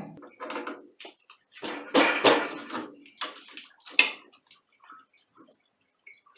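Metal clanking and scraping in several short bursts, from hand work on the old water heater and its pipe fittings, then a few faint taps.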